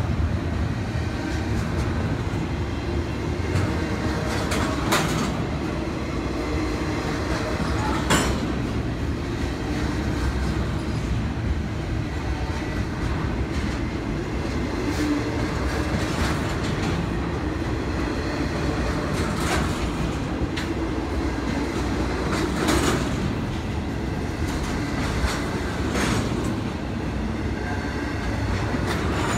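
Double-stack container freight train rolling past close by: a steady rumble of wheels on rail, with a few sharp clacks spread through it.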